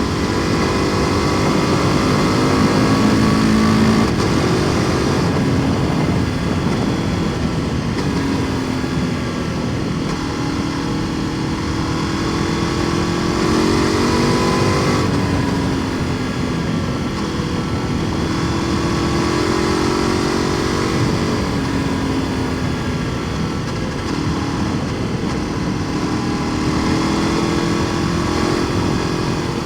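KTM 1290 Super Duke R Evo's big V-twin through an Akrapovič exhaust, under way. The engine note rises and falls with the throttle, with a long pull climbing in pitch about halfway through that then drops off sharply, over a steady rush of wind and road noise.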